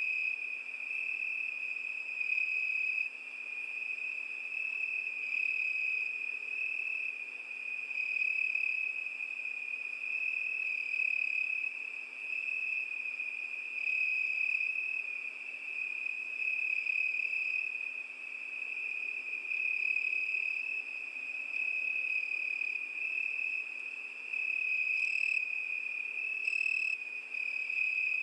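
Crickets chirping in a continuous high trill whose loudness swells and fades every couple of seconds. A few short, higher chirps join in near the end.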